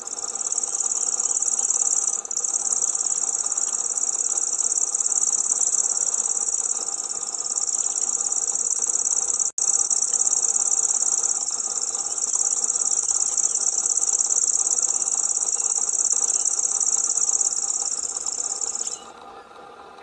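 Common grasshopper warbler reeling: one very high, even trill held without a pause for about nineteen seconds. A momentary gap comes about halfway through, and the song stops shortly before the end.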